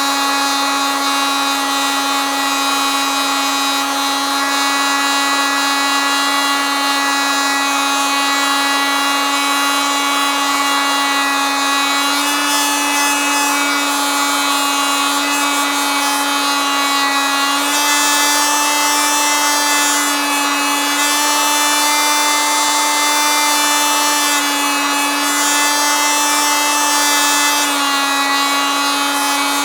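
Oscillating multitool running continuously with a steady high-pitched buzz, its pitch shifting slightly up and down a few times.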